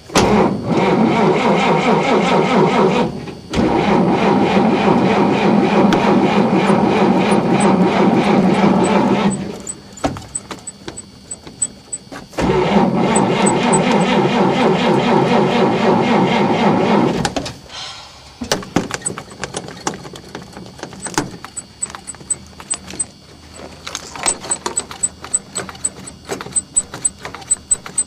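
A flooded 1948 Chevrolet's straight-six being cranked over by its starter in three long tries, about three, six and five seconds long, with short pauses between, and not catching. Softer, irregular clicks and taps follow in the last ten seconds.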